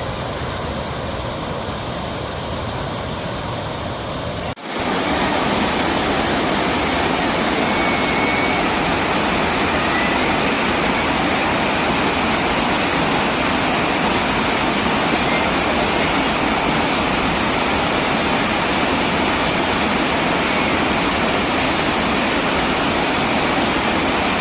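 Rushing floodwater, a loud steady noise of heavy flow. About four and a half seconds in there is a cut, and the rush is louder after it.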